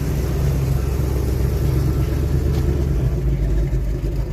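A car engine idling, a steady low hum that holds an even pitch throughout.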